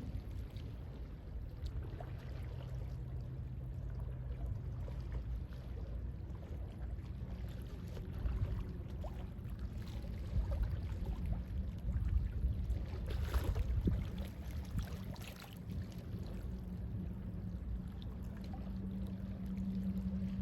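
Gentle sea waves lapping over a low rumble, with one fuller wash of water about two-thirds of the way through. A faint steady low hum comes in near the end.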